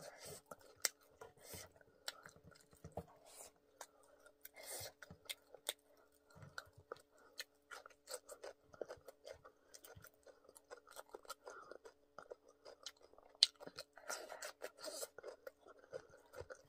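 A person chewing and biting crispy fried chicken and pork close to the microphone, with many irregular crunches, crackles and wet mouth clicks. A faint steady hum runs underneath.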